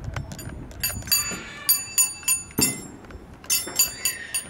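Fireworks popping: an irregular rapid series of sharp cracks, several a second, each with a brief high ringing.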